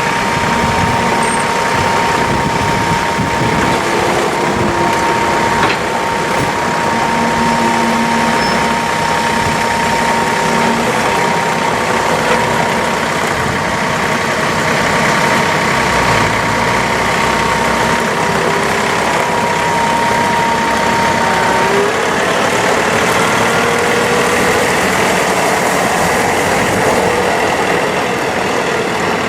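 John Deere 3046R's three-cylinder turbocharged Yanmar diesel engine running steadily; its note shifts slightly about two-thirds of the way through.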